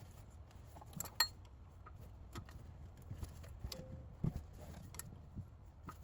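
Irregular metallic clicks and knocks of hand tools on the water pump pulley bolts as they are tightened, the sharpest about a second in.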